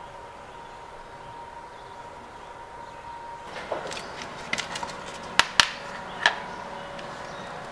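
A steady faint hum, then a run of sharp clicks and knocks starting about halfway through, the two loudest close together and one more shortly after.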